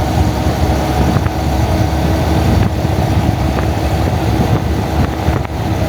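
Honda Monkey motorbike's engine running at a steady cruise, mixed with heavy wind rumble on the bike-mounted camera's microphone.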